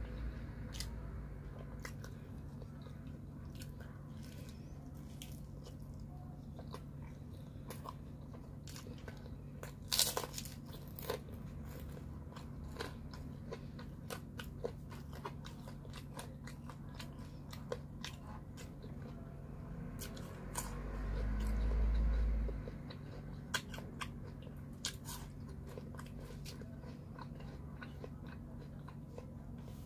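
Close-miked eating of pizza and pear slices: chewing with many sharp crisp clicks and crunches, and one louder snap about a third of the way in. A low rumble swells for about two seconds about two-thirds of the way through, over a steady low hum.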